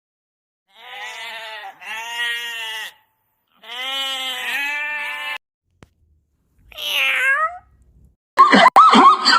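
Bleating: three long, wavering bleats in the first half, each about a second long, then a shorter call that falls in pitch. A louder, rapid series of calls begins near the end.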